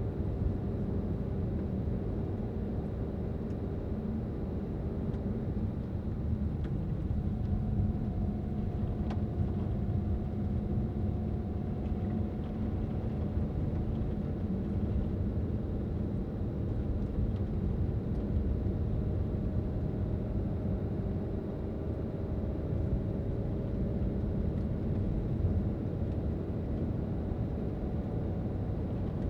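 A car driving at steady speed: a constant low rumble of engine and road noise, with a faint hum that drifts gently in pitch.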